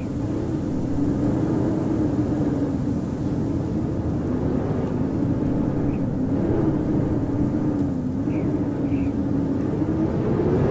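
Howling blizzard wind: a steady rush of wind with a low howling tone that slowly wavers up and down in pitch.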